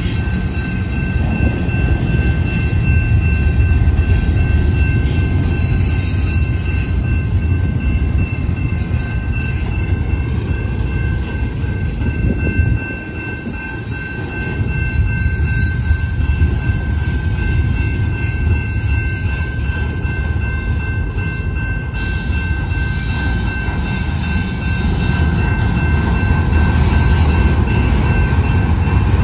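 Double-stack intermodal container cars rolling past at close range: a steady heavy rumble and rattle of wheels on rail, dipping briefly about halfway. A thin, steady high ringing tone runs along with it.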